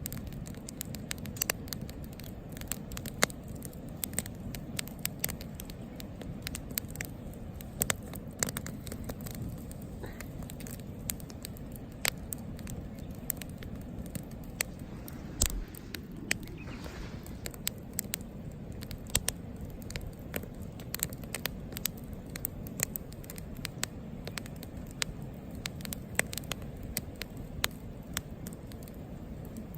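Wood campfire crackling, with frequent irregular sharp pops and snaps over a low steady rushing sound.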